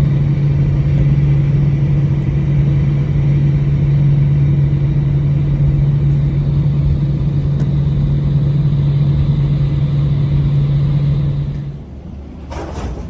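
Jet airliner cabin drone, a loud steady hum with a strong low tone. Near the end it drops off abruptly to a quieter rumble.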